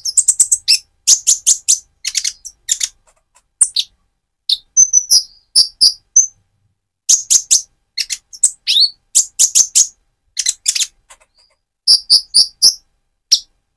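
Purple-throated sunbird (Leptocoma sperata) singing: quick runs of short, high, thin chirps in clusters, with brief pauses between runs.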